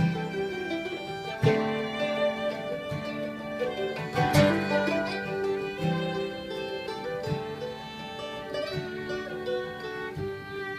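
Acoustic folk instrumental intro: a strummed and plucked acoustic guitar under a bowed fiddle playing sustained melody notes.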